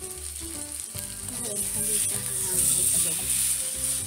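Seasoned salmon fillets frying in oil in an electric skillet, a steady sizzle.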